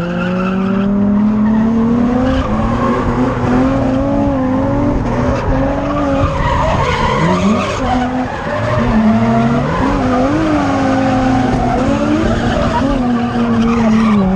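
Drift car engine revving up over the first couple of seconds, then held at high revs with the pitch rising and dipping as the throttle is worked, while the tyres squeal and skid through a drift.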